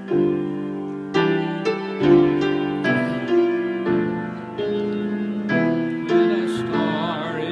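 Slow piano music, with chords struck about once a second and each left to ring and fade. A wavering tone joins near the end.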